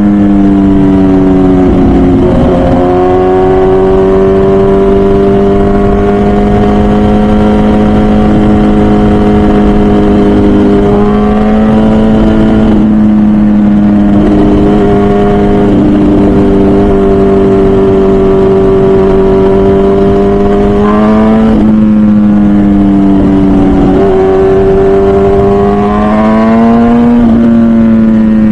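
MV Agusta Brutale 1000RR Nurburgring's 998cc inline-four, heard from on board through its full titanium Arrow exhaust, running hard at high revs while riding. Its pitch holds mostly steady and swings up and down briefly about four times as the throttle and gears change. Wind rushes under the engine note.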